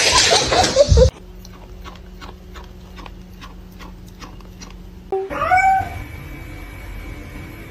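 A domestic cat meowing: one short, loud call with a rising start about five seconds in. Before it, a loud, noisy passage cuts off abruptly about a second in, followed by soft, regular ticking about three times a second over a low hum.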